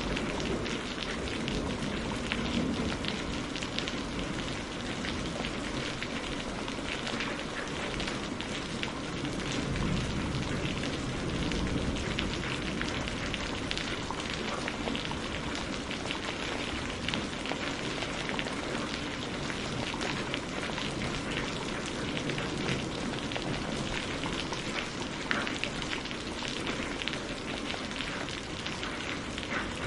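Steady rain falling, mixed with the crackle of burning firewood: an even hiss of rain dense with small ticks.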